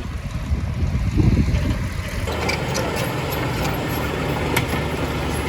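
Heavy diesel construction machinery running. After a louder low swell about a second in, the sound changes abruptly about two seconds in to a steady engine note with a few faint ticks.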